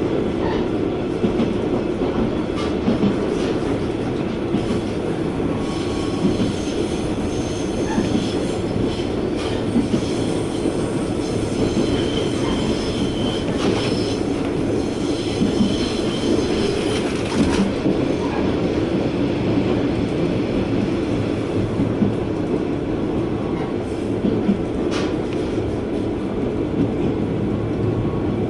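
JR West KiHa 120 diesel railcar running along the line, heard from inside the carriage: a steady rumble of the engine and wheels on the rails. From about six seconds in until about seventeen seconds, a high wheel squeal from the wheels grinding on a curve rides over it.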